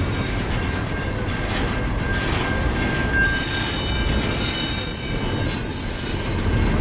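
Double-stack container well cars of an intermodal freight train rolling past, with a steady low rumble of wheels on rail. A high-pitched wheel squeal sets in suddenly about three seconds in.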